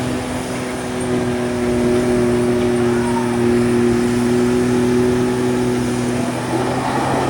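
Gasoline pickup truck engine held at high revs under full load while pulling a weight-transfer sled down the track. The pitch stays steady, then falls away near the end as the run ends.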